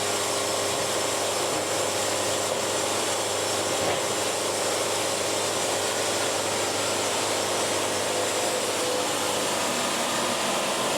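Band sawmill running steadily: a constant mechanical hum with an even hiss over it, unchanging throughout, with no knocks or bangs.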